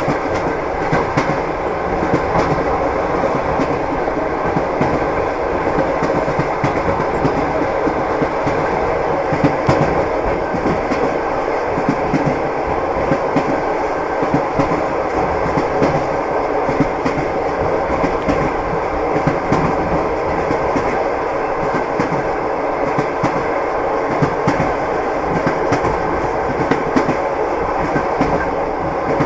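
Train wheels clattering over rail joints. A moving railway carriage makes a steady rumble with frequent short clicks.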